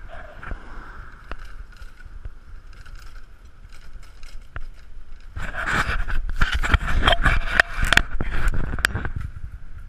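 Riding noise of a bicycle carrying a GoPro camera: a steady whir, then from about halfway in a stretch of loud rattling and clattering with low rumble, which eases just before the end.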